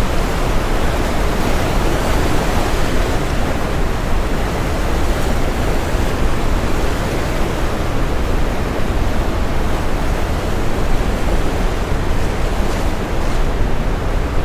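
Steady brown noise: an even, deep hiss heaviest in the low end, blended with the wash of ocean surf.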